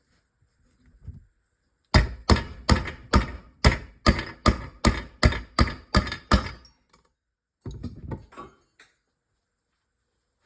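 A hammer striking about a dozen times in a steady rhythm, roughly two and a half blows a second, then a few lighter knocks and clicks.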